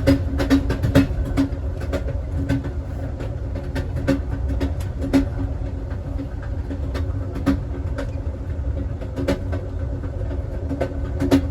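Passenger train running, heard from inside its last car: a steady low rumble with a steady hum, and irregular sharp clicks and knocks from the running gear and car body, thickest in the first second or so and again near the end.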